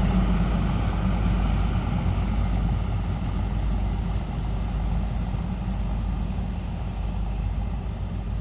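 D4H diesel locomotives running under load as they haul a coal train, a steady low engine rumble that slowly fades as the train draws away.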